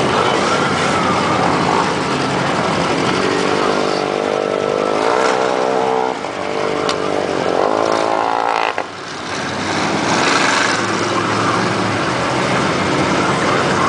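Truck engine revving hard over a loud, steady rush of noise, its pitch climbing twice in the middle of the stretch.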